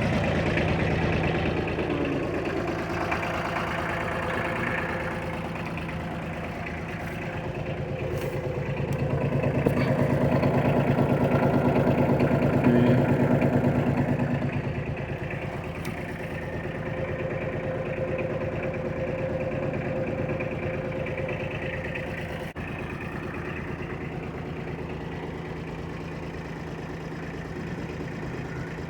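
Kubota L245DT tractor's diesel engine idling steadily, growing louder around the middle and then easing off.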